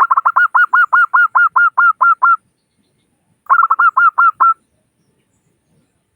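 Zebra dove (perkutut) calling: a fast run of about a dozen short, clear cooing notes, then after a pause of about a second a shorter run of about seven more.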